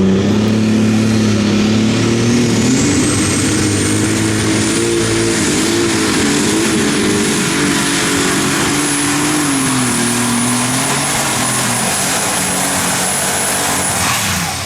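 Unlimited Super Stock pulling tractor's turbocharged diesel engine running flat out down the track. A high turbo whine climbs over the first few seconds and holds over a wavering engine note. Near the end the engine lets off and the whine falls away.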